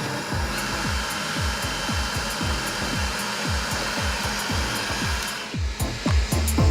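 Roborock S50 robot vacuum running, a steady whir of its suction fan, under background music with a steady electronic beat. The vacuum's whir drops away about five and a half seconds in, leaving the music.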